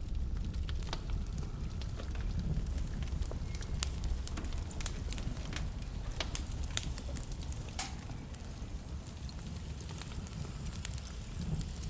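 Wood fire burning in a fireplace: a steady low rumble of flames with frequent sharp crackles and pops of burning logs, scattered irregularly.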